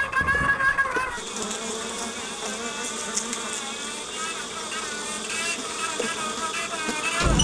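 Honey bees buzzing in numbers around hives that have been disturbed during a night move: a dense, wavering drone of many wings. A steadier whine over the first second stops about a second in.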